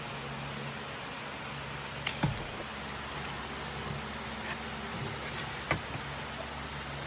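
A few sharp clicks and light clinks over a steady background hum, with the loudest clicks about two seconds in and again near the end.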